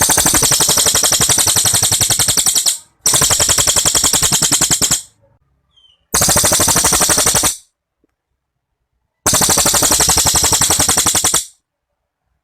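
Cililin songbird singing its long, rapid rattling trill (the 'tembakan panjang' that bird keepers prize). Four long bursts of very fast repeated high notes, each lasting about one and a half to three seconds, with short pauses between them.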